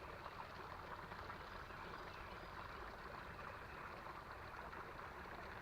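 Faint, steady rush of a small creek's flowing water.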